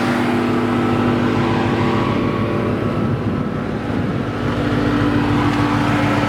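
Chrysler 300 SRT8's 6.1-litre Hemi V8 idling through a Flowmaster exhaust, with the idle tone wavering briefly about halfway through before settling again.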